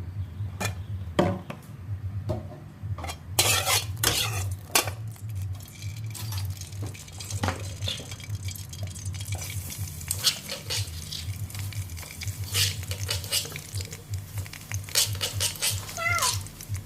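A metal utensil scraping and clanking against a pan while chicken and green beans are stir-fried and sizzling, with irregular clatters and a steady low hum underneath.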